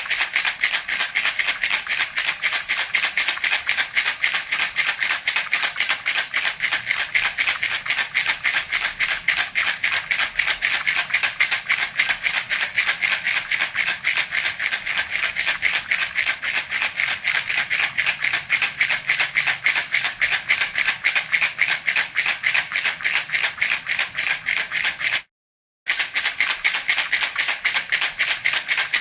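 Baby rattle (jhunjhuna) shaken rapidly and evenly, a continuous dense rattling of its loose beads, breaking off once for about half a second near the end.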